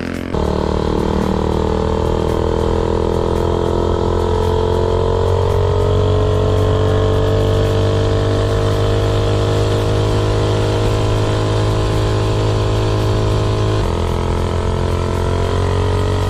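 Modified Predator 212 single-cylinder engine with a header pipe, powering a minibike at full throttle on a top-speed run. The engine note is held high and its pitch climbs slowly as the bike gains speed, with a brief change near the end.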